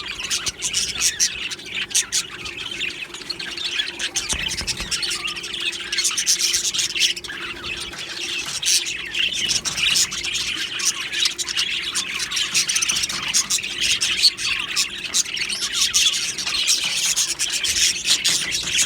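A flock of budgerigars chirping and chattering without a break, many birds calling over one another.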